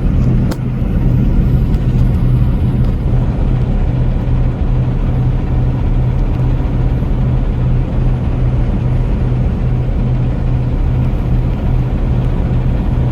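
Steady engine drone and road noise of a vehicle cruising on the interstate, a constant low hum over rumble, with a brief click about half a second in.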